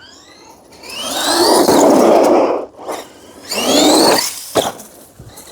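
Stock brushed 540 motor of a Redcat Volcano EPX RC truck on 3S whining up in pitch under two bursts of throttle, with the tyres scrubbing on pavement. The first burst is the longer; the second comes about halfway through.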